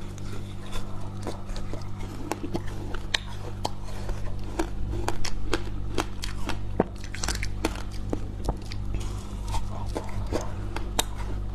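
Freezer frost being bitten and chewed close to the microphone: a run of crisp, irregular crunches and crackles over a steady low hum.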